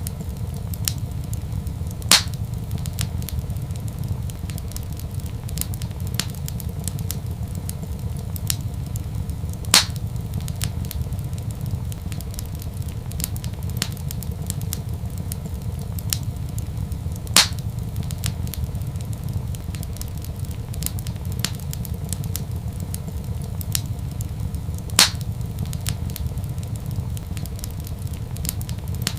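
Wood fire in a fireplace crackling over a steady low rumble, with small crackles throughout. Four louder pops come at even intervals of about seven to eight seconds.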